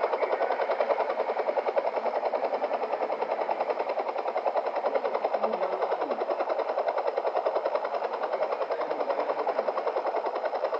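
Helicopter rotor chopping steadily in a rapid, even beat.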